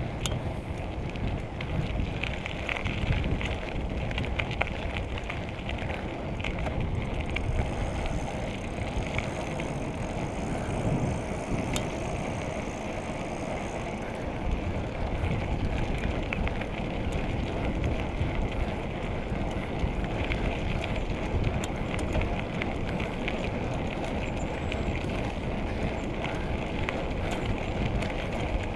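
Bicycle riding along a road: a steady rumble of tyres and wind buffeting the microphone, with scattered small rattles and clicks from the bike.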